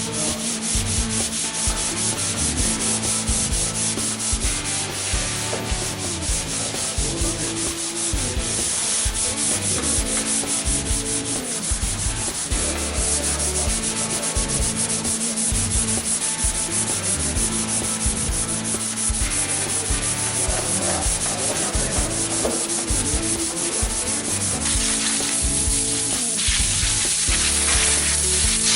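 Sanding on car bodywork: abrasive rubbing over a panel in a rapid, even run of strokes.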